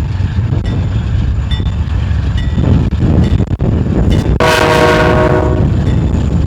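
Diesel freight train running past with a steady low rumble, its locomotive horn sounding one chord for about a second, about two thirds of the way through. The train is a BNSF local with a GE B40-8 locomotive, moving out after switching cars.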